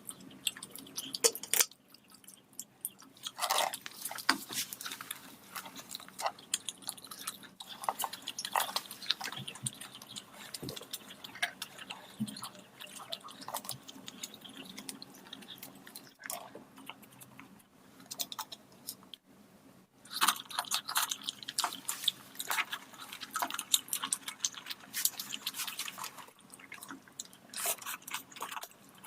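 A person eating rice and curry close to the microphone, with irregular wet chewing clicks and occasional crunches as they bite, and a short lull about two-thirds of the way through.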